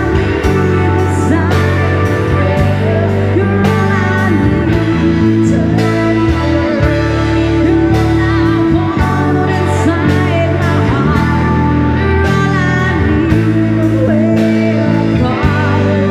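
Full rock band playing live, with electric guitar, bass and drums under a sung melody.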